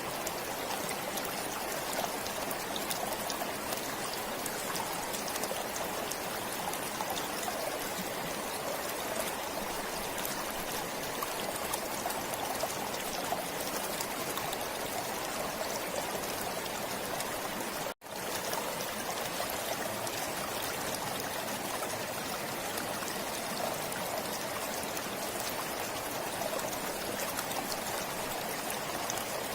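A forest stream flowing and trickling steadily. The sound cuts out for an instant about eighteen seconds in, then carries on as before.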